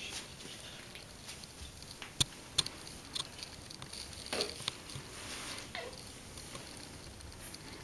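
Light scattered pattering and scratching of small paws moving about, with two sharp clicks a couple of seconds in and a brief rustle in the middle.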